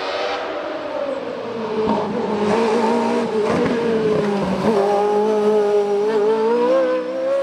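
Race car engine at high revs going past, its pitch rising and falling with the throttle, with brief breaks at gear changes. The sound builds over the first two seconds and then stays loud.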